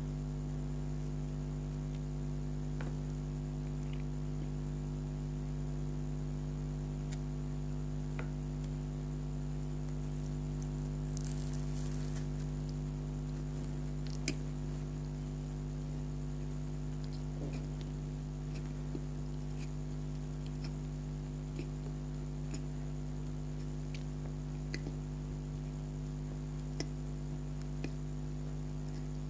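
Faint chewing and small mouth clicks from eating a soft donut, spaced irregularly, over a steady low electrical hum.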